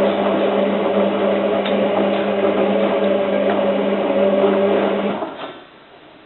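Hotpoint 9534A washing machine's drum motor turning the drum during the wash cycle's heating stage: a loud, steady motor hum with a whine, cutting off about five seconds in as the tumble pauses.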